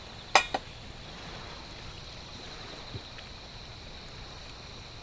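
Steady hiss of rain, with two sharp clicks in quick succession under half a second in and a faint low thud about three seconds in.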